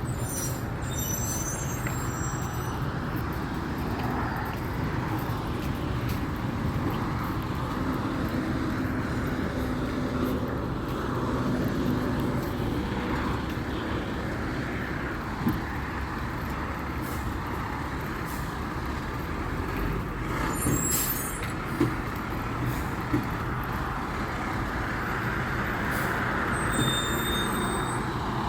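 Garbage truck running steadily, with a few sharp knocks partway through and brief high squeals near the start and near the end.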